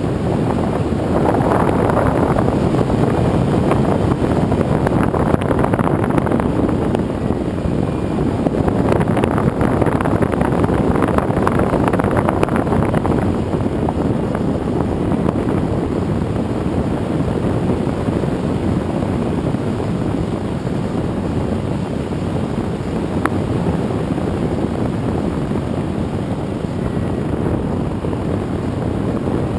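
Steady rush of wind and propeller noise picked up by a camera riding on a radio-controlled airplane in flight.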